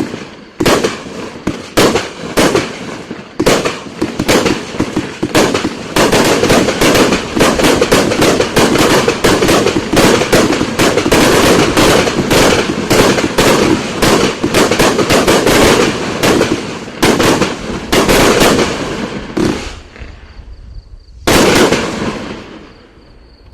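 Top Notch 'America's Grand Finale' 500-gram consumer fireworks cake firing its shots in quick succession: separate bangs about two a second at first, then a dense, unbroken barrage for about thirteen seconds that thins out, with one last loud burst near the end before it fades away.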